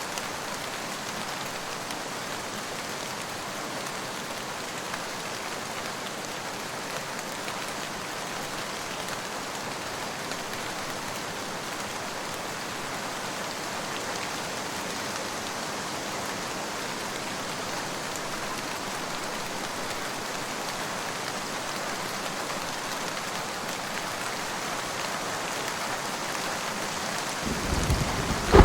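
Steady, heavy rain falling. Near the end a thunderclap breaks in with a low rumble that swells to a loud crack.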